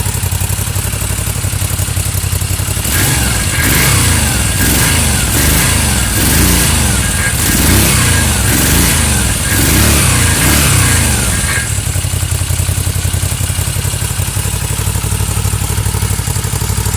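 Moto Guzzi V7 III's air-cooled transverse V-twin running through Busso aftermarket silencers. It idles steadily, then from about three seconds in it is blipped up and down on the throttle several times in a row, about once a second. It settles back to idle after about twelve seconds.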